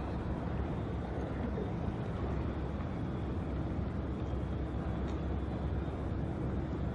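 Steady outdoor low rumble with wind noise on the microphone, even throughout with no distinct events.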